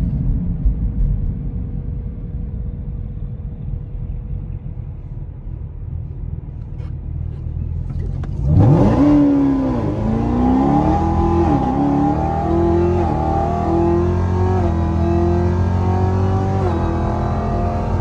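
A car engine rumbling low, then about eight and a half seconds in a hard launch: the engine revs up sharply and pulls through several gear changes, its pitch dropping back at each shift.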